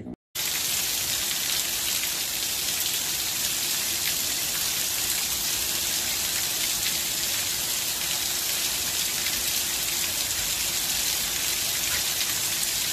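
Heavy rain falling steadily, cutting in abruptly just after the start.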